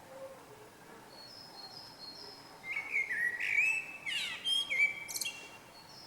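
A small songbird singing: a few faint high chirps, then about halfway in a loud, varied song phrase of whistled notes, quick pitch sweeps and a fast falling trill lasting about three seconds.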